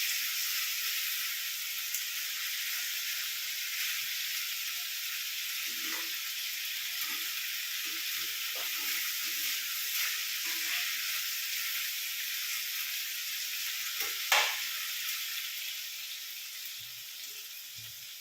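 Chicken kosha frying in mustard oil in a pan, a steady sizzle with occasional scrapes and knocks of the spatula as it is stirred, and one sharp knock about fourteen seconds in. The gravy has largely cooked down, so the chicken is frying in the oil. The sizzle grows quieter near the end.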